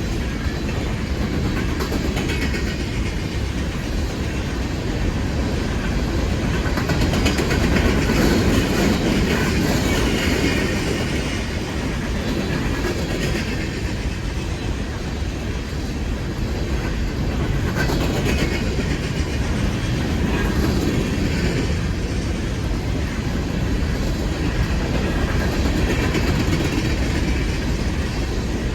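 A train passing close by, its cars rolling steadily over the rails, swelling in loudness about a third of the way in and again around two thirds.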